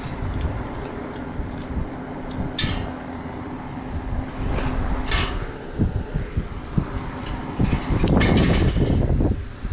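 Hands-on work sounds: scattered clicks and scrapes, with a longer, louder clatter near the end, over a steady background hum.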